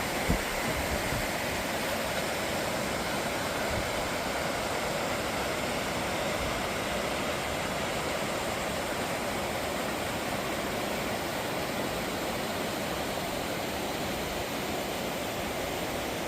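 Creek water rushing in a steady, even flow, with a single small knock just after the start.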